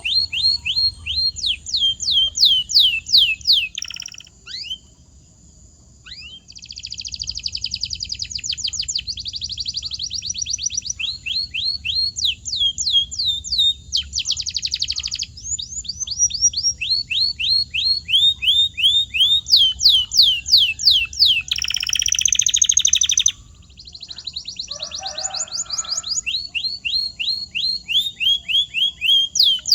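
Domestic canary singing: phrases of repeated falling whistled notes, a few each second, alternating with fast rolling trills. There is a short break in the song about four seconds in.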